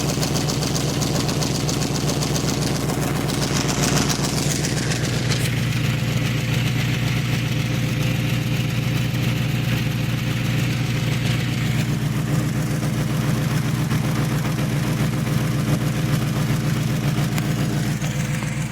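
1995 Chevrolet Caprice's LT1 V8 idling steadily, with exhaust escaping from a bad exhaust leak.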